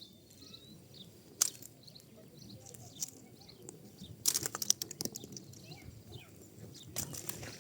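Wood and pinecone fire crackling in a fireplace: scattered sharp pops over a low steady burning rumble, with a quick burst of crackles about halfway through and another near the end, and faint high hissing squeaks from the burning cones.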